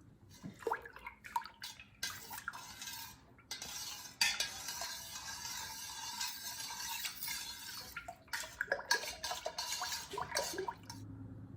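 A utensil stirring melted candle wax in a container, with repeated clinks and knocks against the sides and a stretch of steady scraping in the middle, mixing in the fragrance oil and colorant.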